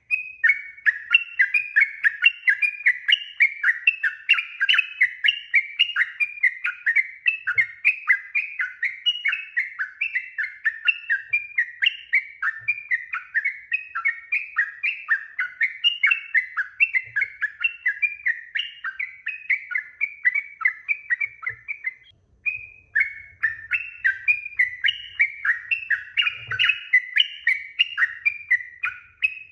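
Yellow-vented bulbul singing a long, rapid run of bubbly chirping notes, about three a second, broken only by one brief pause about three quarters of the way through.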